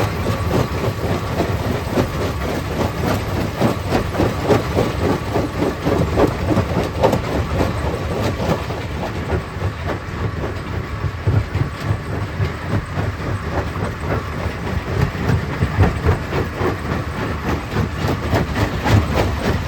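Stone crusher machine running and crushing rock: a continuous clatter of many irregular knocks and grinding over a steady low machinery rumble.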